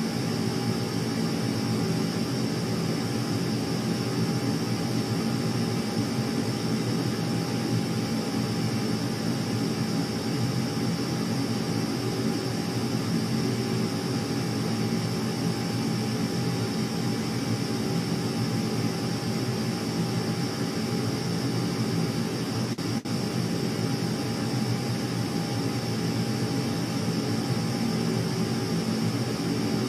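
Jet aircraft engines running steadily: a constant high whine over a low rumble, with one very brief dip about three-quarters of the way through.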